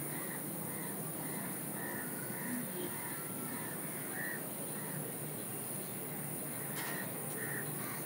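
A bird calling in a series of short, similar notes, repeated every half second or so over a steady background hiss.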